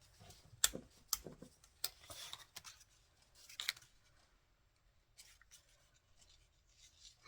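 Patterned paper strips being handled on a craft table: irregular light taps, slides and rustles of card and paper, busiest in the first few seconds and fainter later.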